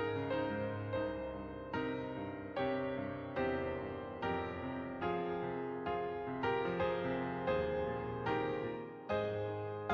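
Soft, slow background piano music, notes or chords struck about once a second and left to ring.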